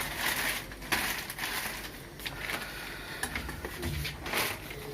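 Crinkling and rustling of packaging handled by hand, in a few bursts with scattered light clicks.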